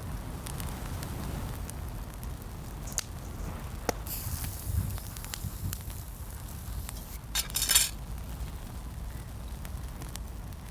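Wind buffeting the microphone in a steady low rumble, with scattered clicks and clinks of cooking utensils and a brief louder clatter about three-quarters of the way through.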